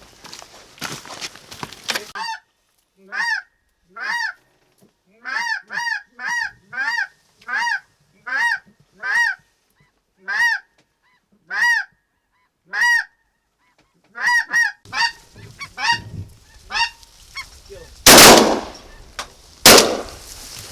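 A goose honking over and over, about eighteen short rising-and-falling honks in an uneven rhythm, then two loud shotgun shots about a second and a half apart near the end.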